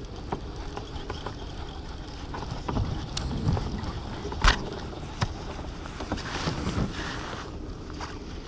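Noises from a fishing kayak while a hooked largemouth bass is being fought to the boat: scattered knocks and rattles against the hull and gear over a steady rumble, with one sharp knock about halfway through, the loudest.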